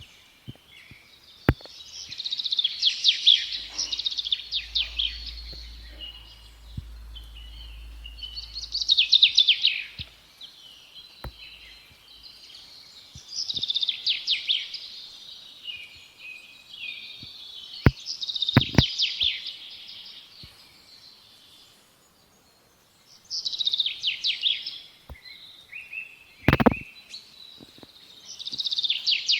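A small songbird singing short, fast-trilled phrases, one every four or five seconds. A few sharp clicks fall between phrases, the loudest a little before the end.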